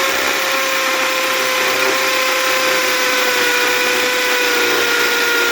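Chicago Electric 1/2-inch corded hammer drill running in hammer mode, driving a 1/2-inch masonry bit into a cinder block: a steady motor whine over a hard, dense hammering noise. The motor pitch sags slightly as the bit works in.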